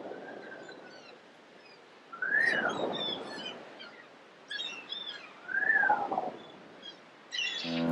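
Birds calling: two longer calls that rise and then fall, about three seconds apart, among scattered short high chirps.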